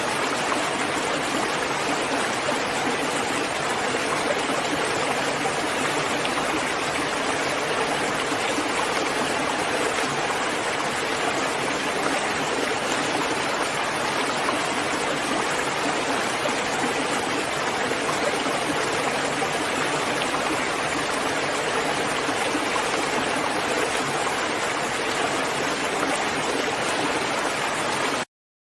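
Steady heavy rain, a continuous even hiss of falling water. It cuts out abruptly near the end.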